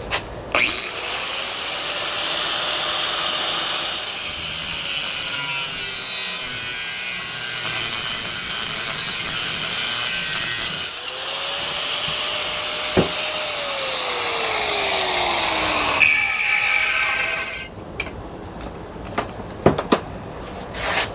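Power tool making two stress cuts through metal in a ceiling fan motor. It spins up and cuts for about ten seconds, drops off briefly, then spins up and cuts again, its motor pitch sinking over the last few seconds before it stops.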